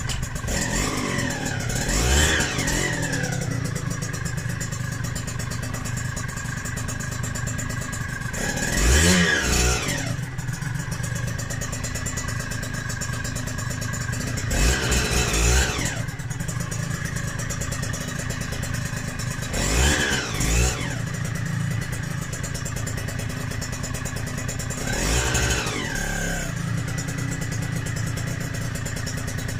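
Yamaha DT125R's rebuilt single-cylinder two-stroke engine idling through a DEP exhaust pipe, blipped about five times. Each blip is a quick rise and fall in revs, every five or six seconds.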